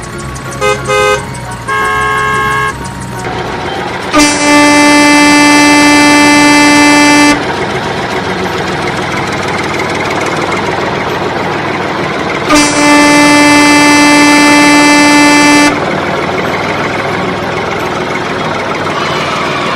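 Vehicle horn sounding: a few short toots, then two long, loud, steady blasts of about three seconds each, the second coming some five seconds after the first, over a steady background rumble.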